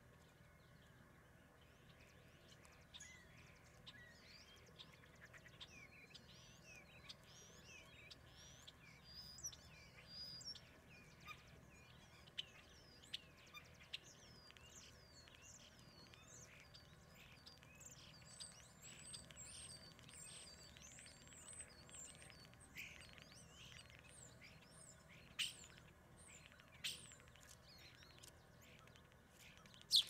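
Faint chirping and calling of small wild birds: many short, quick high notes that slide up and down, with a few sharper, louder notes in the second half.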